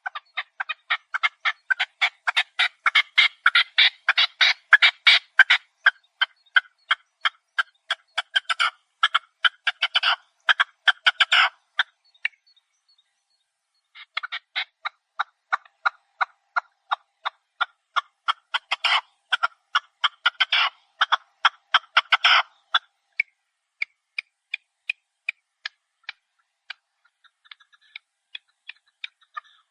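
Chukar partridges calling: rapid runs of short chattering notes, about five a second, in two long bouts separated by a pause of nearly two seconds. The notes thin to scattered calls over the last several seconds.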